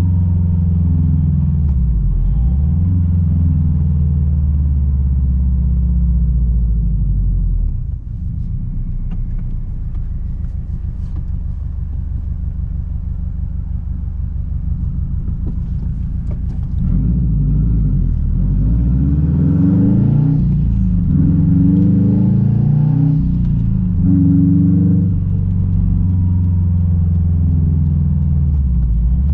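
Straight-piped Subaru WRX STI turbocharged flat-four exhaust with a deep rumble. It runs steadily, drops to a quieter low rumble about eight seconds in, and then from about halfway through grows louder as the revs rise and fall repeatedly, as under acceleration through gear changes.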